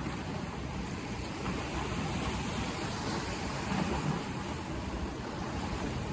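Steady rushing noise with a low rumble underneath, with no distinct events.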